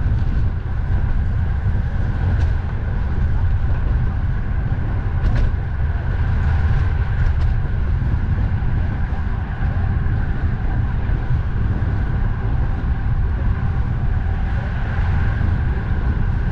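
Strong wind rumbling on the microphone during a bicycle ride, with steady road and traffic noise underneath and a few faint clicks.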